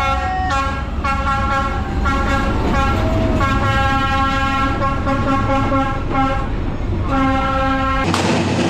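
Train horn sounding several long blasts, one chord held for seconds at a time, over the low rumble of the passing train. A little before the end the sound cuts abruptly to a rushing, clattering noise.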